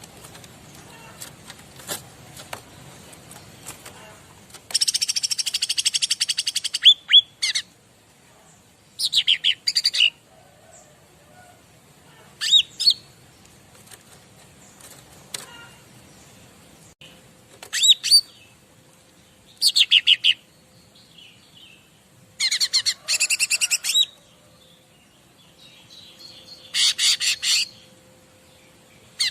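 Cica ranting songbird singing: bursts of rapid, high-pitched trilled phrases, each lasting a second or two, separated by pauses of a few seconds.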